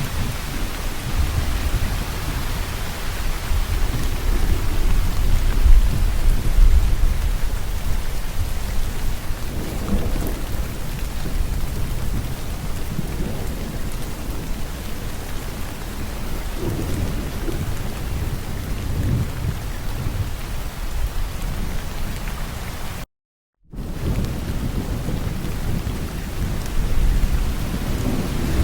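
Steady heavy rain with low rolling thunder rumbling underneath, the rumble swelling about five seconds in. Near the end the sound cuts out completely for about half a second, then the rain resumes.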